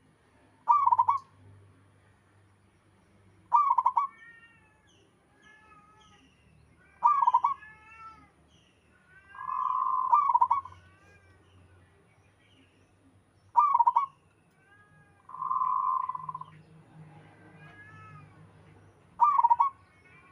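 Zebra dove (perkutut) cooing: a loud short burst of coo notes about every three seconds, six in all, with two longer drawn-out notes between them. Fainter, higher chirping calls fill the gaps.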